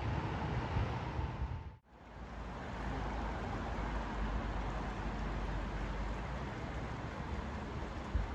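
Steady pink-noise hiss over outdoor ambience with a low rumble underneath. The sound dips almost to nothing for a moment about two seconds in, then swells back.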